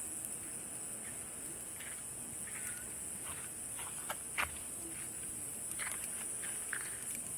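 Steady high-pitched chorus of summer night insects, with a wood campfire crackling in scattered small pops underneath, one sharper pop about midway.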